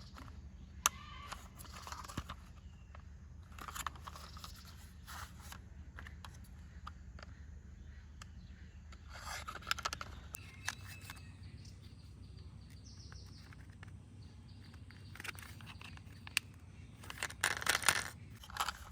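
Plastic toy parts being handled and snapped together: scattered small clicks and scrapes, busier near the end, over a steady low hum.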